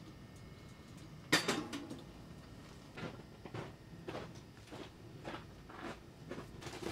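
Clinks and knocks of hard objects being handled, with one sharp knock just over a second in, then lighter taps about every half second.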